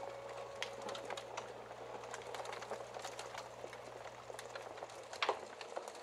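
Wood fire crackling: irregular small snaps and pops over a soft hiss, with one louder pop about five seconds in.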